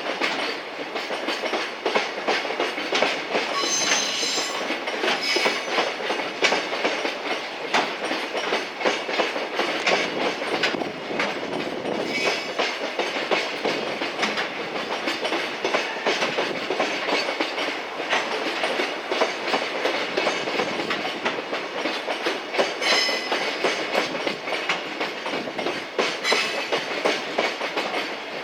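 Freight train wagons rolling past steadily, their wheels clattering over the rail joints in a continuous clickety-clack, with a brief high-pitched squeal about four seconds in and again near twenty-three seconds.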